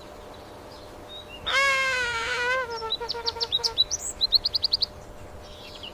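A bird calling: one long, wavering call of about a second, then a string of short falling chirps and a quick high trill of about seven notes.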